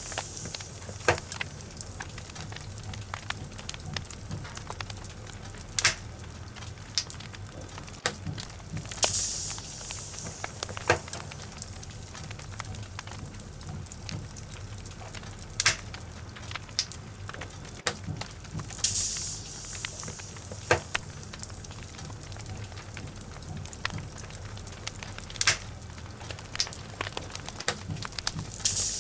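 Wood logs burning in a fireplace, crackling with many sharp pops of varying loudness over a steady low rumble of the flames. A brief hissing surge comes about every ten seconds.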